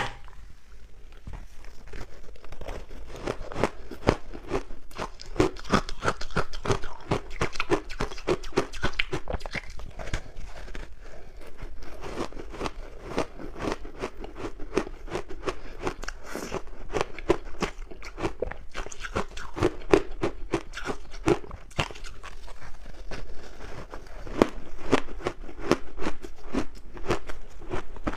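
Close-miked crunchy ice being bitten and chewed, a continuous run of rapid sharp crunches.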